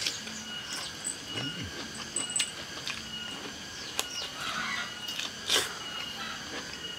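Close chewing of crisp raw vegetables, with sharp crunches now and then, the loudest about four and five and a half seconds in. Behind it is a steady high chirping of crickets.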